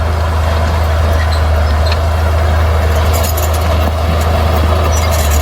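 A bulldozer's diesel engine running steadily with a deep, constant low hum. From about three seconds in, a run of light clicks and clanks sits over it.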